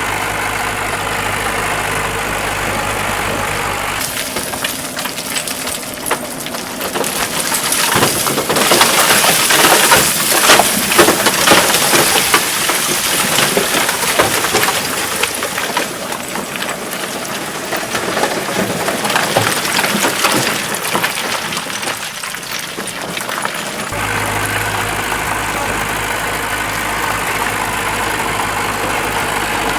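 Heavy machine's diesel engine idling steadily. About four seconds in the drone gives way to a loud rushing, clattering noise with many sharp knocks, loudest a few seconds later: a load of big rock tumbling from a dump truck bed. It fades, and the engine idle returns about six seconds before the end.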